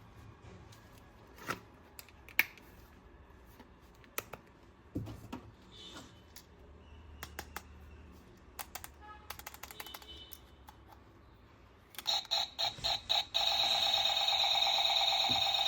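Scattered clicks and taps of plastic toy parts being handled. About twelve seconds in, a much louder electronic toy sound effect starts: a few quick pulses, then a steady buzzing tone.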